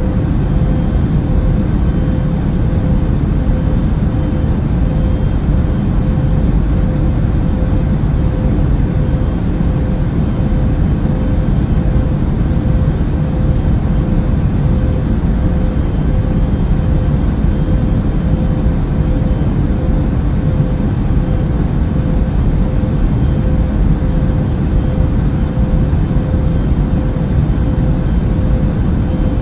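Airbus A380 cabin noise in cruise flight: a steady, unchanging low rumble of engines and airflow with a constant faint hum on top.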